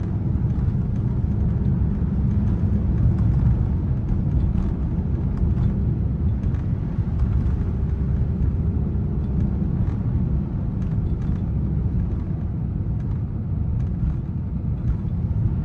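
A 2024 Volkswagen Atlas SUV driving on a snowy road, giving a steady low rumble of tyre and road noise inside the cabin, with faint scattered ticks.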